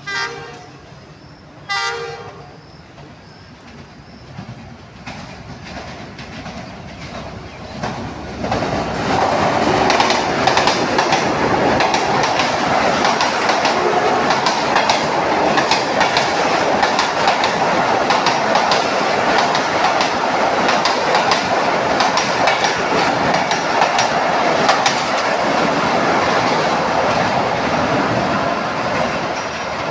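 A passenger train's locomotive horn sounds two short blasts, then the train comes closer and runs past close by for about twenty seconds. Its wheels make a steady rolling noise with rapid clicking over the rail joints, which eases off near the end as the train moves away.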